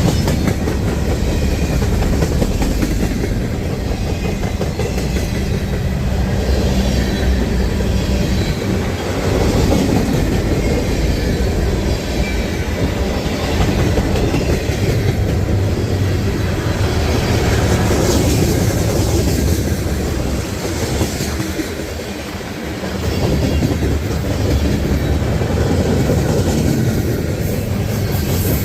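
Freight train rolling past close by, its cars clacking over the rail joints in a steady loud rumble.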